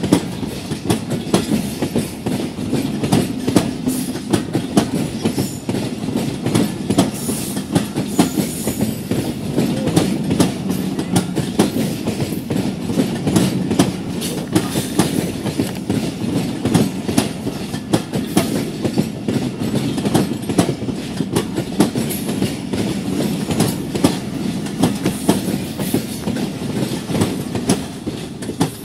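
Pakistan Railways passenger coaches rolling past at close range: a steady rumble of wheels on rail with many sharp clacks as the wheels cross the rail joints.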